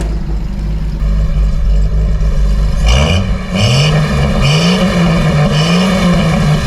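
Ford crossflow 250 straight-six engine in a Toyota Dyna truck running, then revved several times in quick rising blips from about three seconds in. The engine has just been revived after years of sitting and a head gasket job.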